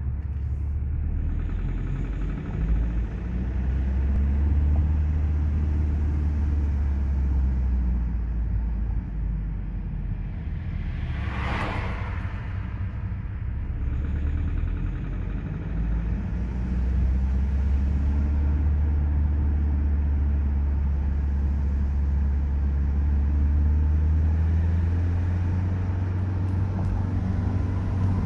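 BMW 5 Series running at low revs, lugging: a steady low drone, which is the noise the owner is showing. About halfway through, a brief rushing whoosh rises and falls over it.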